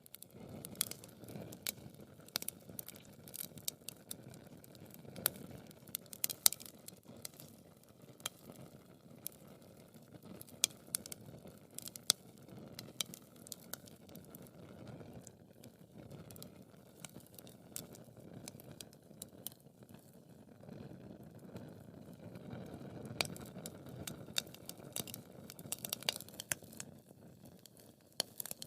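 Wood fire crackling in a fireplace: a steady low rush of burning wood with frequent, irregular sharp pops and snaps.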